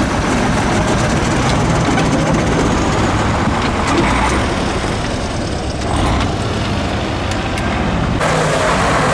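6x6 Ural prototype truck's diesel engine running hard, a heavy steady drone that eases briefly about six seconds in and changes abruptly about eight seconds in.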